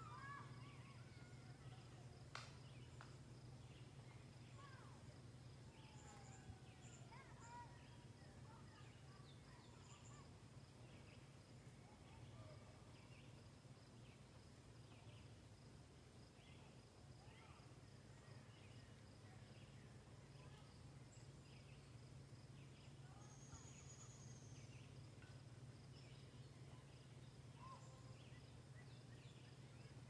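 Faint woodland birdsong: scattered short calls and a run of high chirps repeating about once a second, over a thin steady high tone and a low steady hum. A single sharp click about two seconds in.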